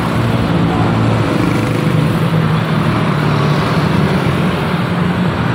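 A motor vehicle engine running steadily with road traffic noise, a low hum under a constant rush.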